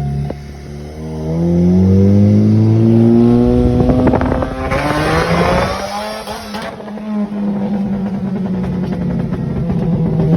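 Supercharged Chevrolet Cobalt SS four-cylinder, running a 2.9 supercharger pulley, ZZP cold air intake and aftermarket exhaust, accelerating: the engine note climbs steadily for a few seconds, gets louder and rougher for a couple of seconds, then settles to a steadier note that slowly falls.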